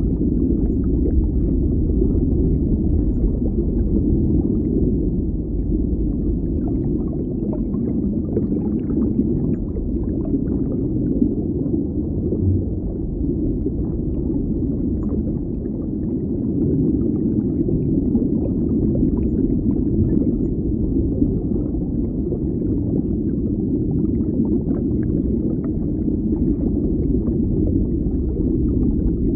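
Underwater ambience: a steady, muffled deep rumble with faint scattered crackles above it.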